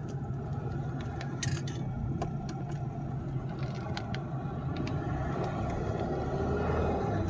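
Engine of a 2010 Chevrolet Impala heard from inside the cabin while driving: a steady low hum that rises in pitch near the end as the revs climb. The car has an unexplained fault that makes the RPM surge up and down and the car jerk.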